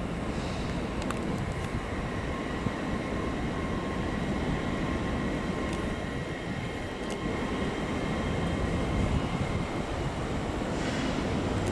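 Train running in a station: a steady low rumble with a faint steady whine, a few light clicks, and a short hiss near the end.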